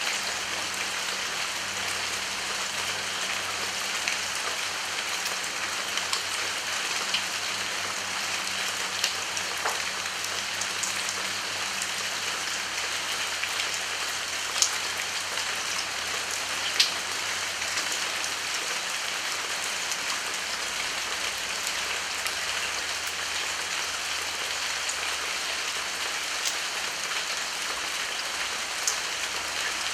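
Steady rain falling, an even hiss with scattered sharper drop hits, the two loudest about halfway through.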